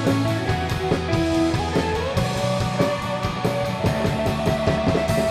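Indie rock band playing an instrumental passage on electric guitars, bass and drum kit, with no vocals. The drum hits come faster in the second half, and near the end the drums drop out, leaving a held guitar chord ringing.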